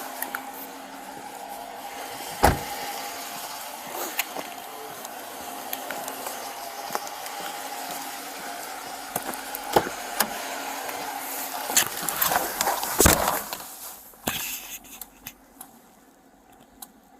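Knocks and clatter of handling around a car over a steady hum, with a sharp knock about two and a half seconds in and a burst of knocks around thirteen seconds. After that the hum falls away and it goes much quieter.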